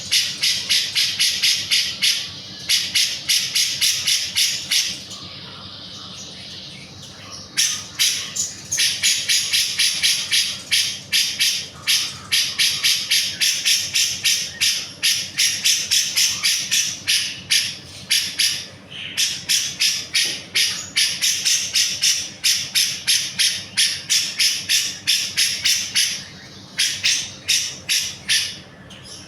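Cucak jenggot (bulbul) singing in full voice: long runs of rapid, sharp, high chirped notes, about four to five a second, broken by a softer pause about five seconds in and short breaks later on.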